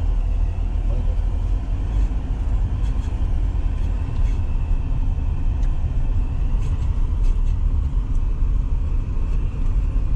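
Steady low rumble of road and engine noise inside a moving van's cabin.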